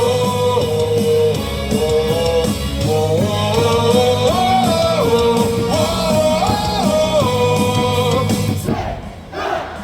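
Rock-style baseball cheer song over the ballpark's loudspeakers: a melody of held notes over guitar and a steady bass. The music breaks off near the end.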